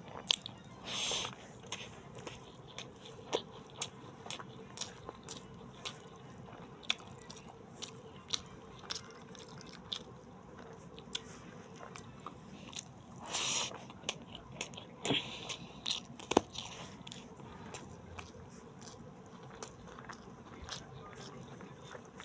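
Close-up sounds of a person eating fish and rice: chewing with many sharp mouth clicks and smacks, and two longer, louder wet bursts, about a second in and around thirteen seconds.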